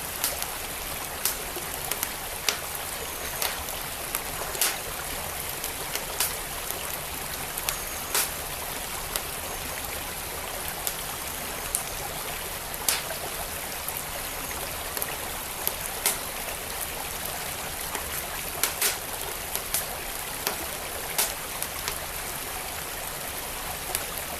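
Steady rush of a flowing creek, with a wood fire in a fireplace crackling over it in sharp, irregular pops about once a second.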